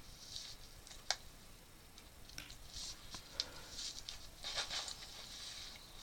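Faint rustling and scraping of handling, with a few sharp clicks, the clearest about a second in.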